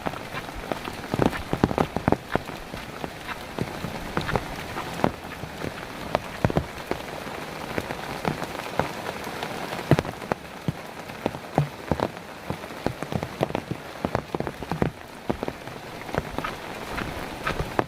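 Steady rain falling, with a dense hiss and many irregular, sharp drop impacts close by.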